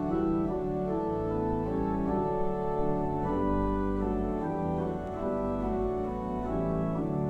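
Church organ playing slow, sustained chords, several notes held at once and changing every second or so.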